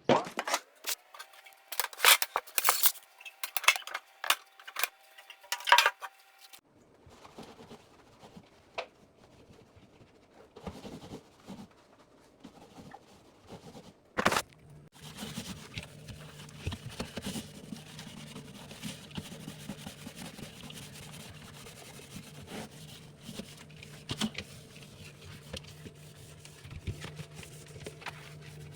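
Clattering knocks and rubbing or scraping as household objects are handled, loudest in the first few seconds, with a single sharp knock about halfway through. After the knock a low steady hum sets in.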